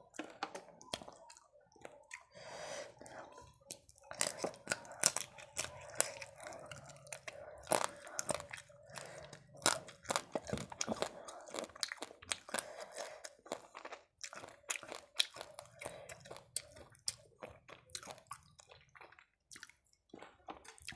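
Close-miked chewing of hand-fed mouthfuls of fish curry and rice, full of irregular crisp crunches and wet mouth clicks.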